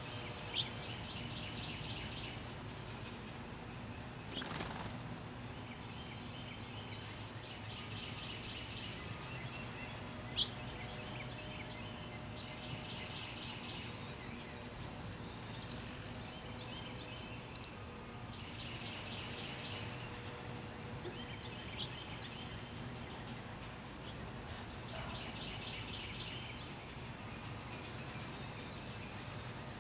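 A songbird repeating a short, rapid trilled phrase about every five to six seconds over a steady low background hum, with two sharp clicks, one near the start and one about ten seconds in.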